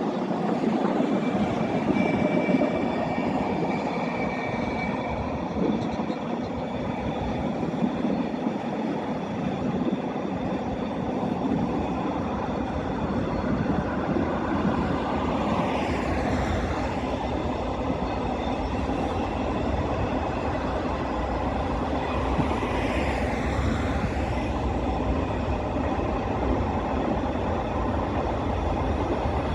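A freight train hauled by a Class 66 diesel locomotive passes with a steady rolling rumble of wheels on rail. The rumble grows deeper about a third of the way through. A thin high tone is heard for a few seconds near the start.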